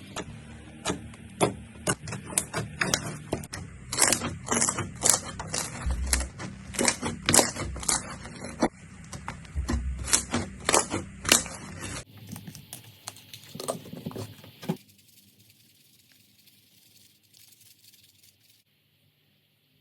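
Slime being squeezed and pressed by hand, giving a quick run of sharp crackling pops and clicks. About twelve seconds in the sound changes to a quieter clip with a few scattered pops, which fades to near silence.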